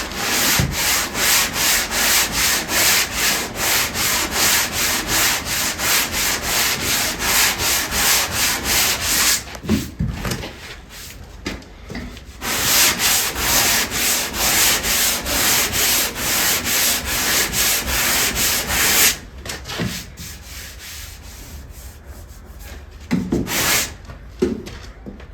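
Sandpaper rubbed by hand over the wooden planking of a boat hull in quick back-and-forth strokes, about two and a half a second. It runs in two long bouts with a lull around ten seconds in, then a short burst near the end.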